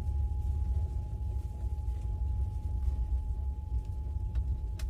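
Steady low rumble of a passenger train, with a faint steady high tone and two short clicks near the end.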